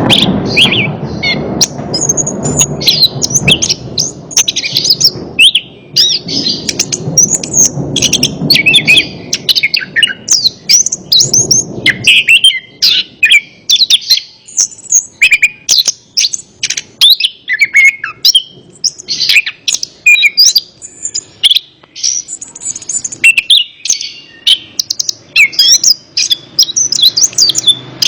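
Orange-headed thrush (anis kembang) singing a dense, fast run of varied chirps and whistles, the kind of song played to a pet thrush to get it to answer. A low rushing noise sits under the song and stops about twelve seconds in.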